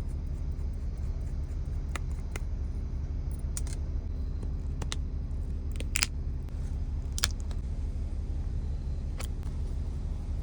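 Car engine idling, a steady low hum heard from inside the car, with a handful of sharp clicks and taps over it.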